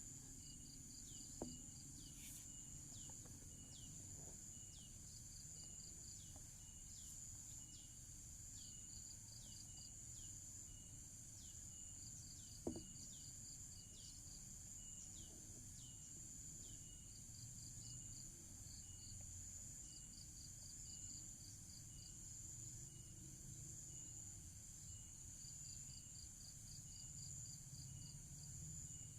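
Faint background of insects chirping: quick trains of high chirps recurring every few seconds over a steady high-pitched drone. Two soft clicks are heard, one about a second and a half in and a sharper one near the middle.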